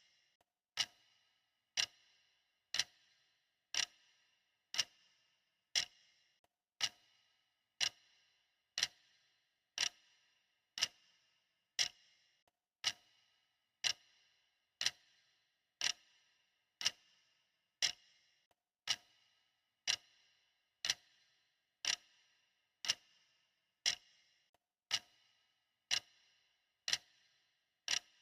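Clock ticking steadily, about one tick a second, each tick a short sharp click with a brief ringing tail.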